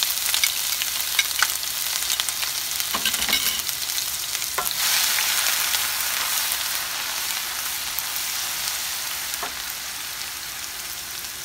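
Ginger, garlic and green chilli paste sizzling and crackling in hot oil in a nonstick frying pan as a wooden spoon stirs it. The sizzle is fiercest at first and slowly dies down.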